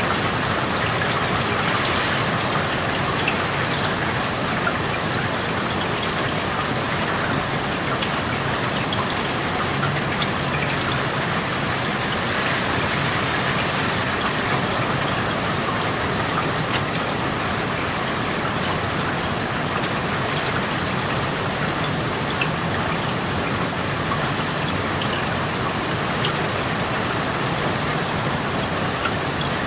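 Steady rain falling, heard through an open window, with many small drops pattering on surfaces.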